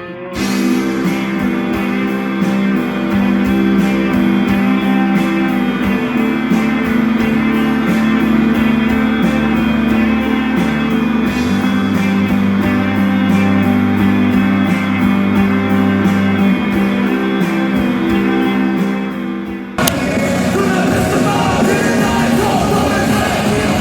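Live band music with singing and guitar from a concert performance, steady and loud. About twenty seconds in it cuts abruptly to a different song.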